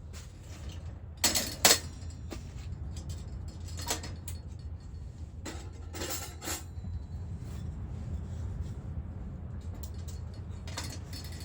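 Sharp clinks and knocks of hard objects being handled, a handful spread out, with two close together near the start the loudest, over a steady low rumble.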